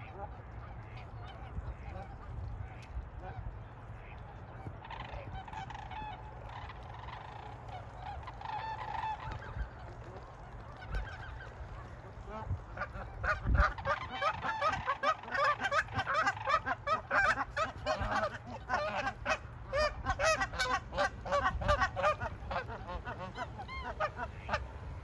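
A flock of waterfowl honking: a few scattered calls at first, then from about halfway through a dense, loud chorus of many overlapping honks.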